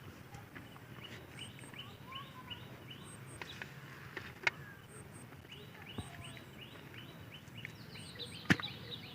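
Birds chirping: runs of short, quick rising chirps repeated many times, with a few sharp knocks about halfway through and near the end.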